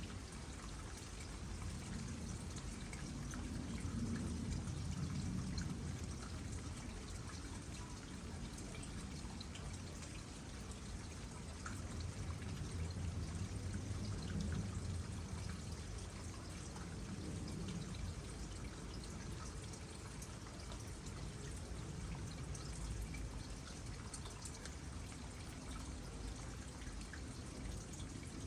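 Water trickling steadily into a small pond, with a low, slowly swelling wash and scattered small drips.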